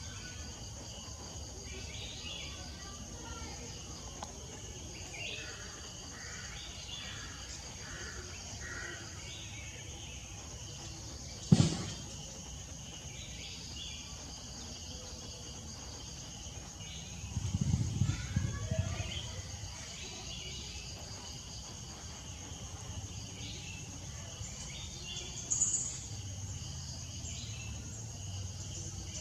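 Steady high-pitched insect drone with scattered bird chirps. One sharp knock comes a little before halfway through, and a louder low rustling lasts a couple of seconds about two-thirds of the way in.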